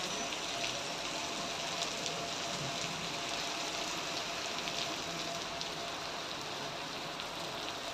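Steady rain falling: a constant hiss with scattered faint drop ticks.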